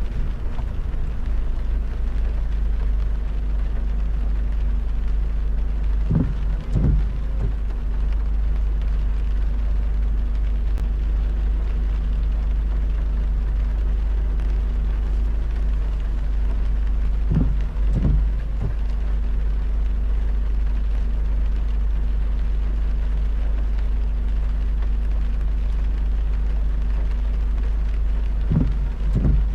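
Car driving in heavy rain: steady low road rumble and hum with the hiss of rain. Three times, about eleven seconds apart, comes a pair of short soft thumps.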